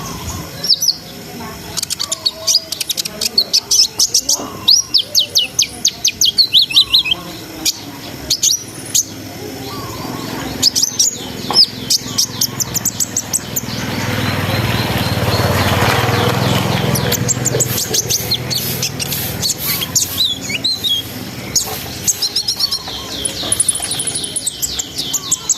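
Kolibri ninja (konin) sunbird singing a fast twittering song of high, rapid chirps and trills. A few seconds of rushing noise stand out in the middle.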